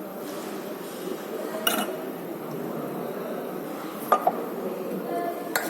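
Spoon and fork clinking against a plate during a meal: a few sharp clinks over steady background noise.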